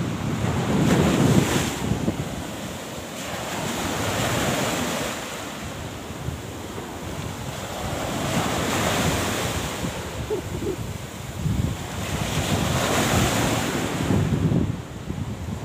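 Surf and wind buffeting the microphone, the noise swelling and fading every few seconds.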